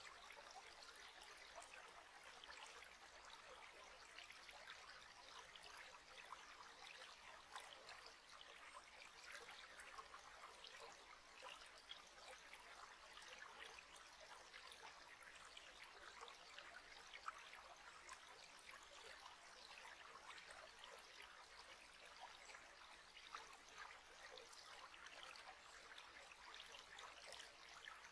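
Faint, steady trickle of a flowing stream: a continuous wash of water with many small splashes.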